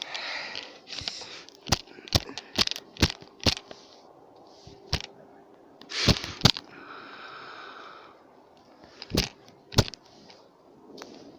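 Handling noise of a dropped camera being picked up and moved: a string of sharp knocks and clicks, unevenly spaced, the loudest a little after halfway and again near the end.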